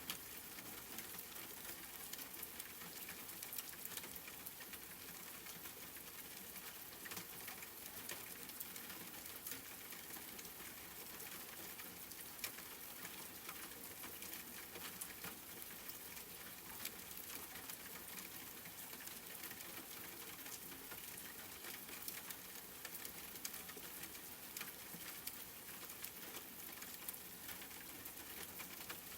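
Steady rain, a soft even hiss dotted with fine scattered drop patter.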